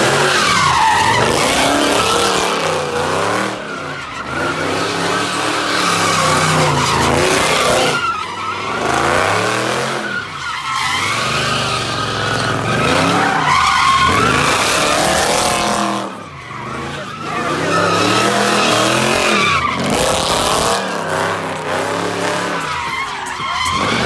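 Car engine revving hard and easing off in repeated cycles while its tires skid and squeal, as in burnouts and donuts. The revs rise and fall several times, with short lulls between runs.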